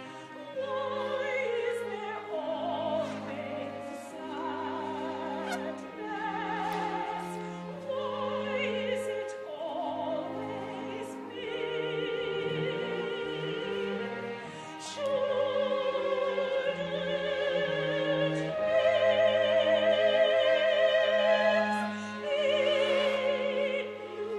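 Operatic singing by a high voice with strong vibrato over instrumental accompaniment. The phrases turn into long held notes in the second half, the loudest near the end.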